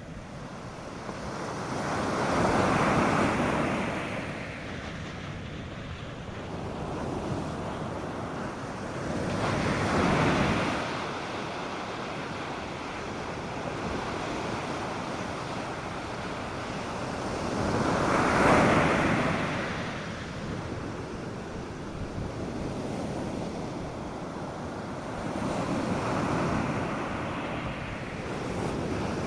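North Sea surf on a beach: four waves break about every eight seconds, each swelling up and falling away, with a steady wash of water between them.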